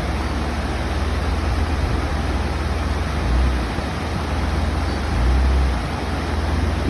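4x4 vehicle running through a river crossing: a steady low engine rumble under a loud rush of water noise, with two heavier surges of rumble about three and five seconds in.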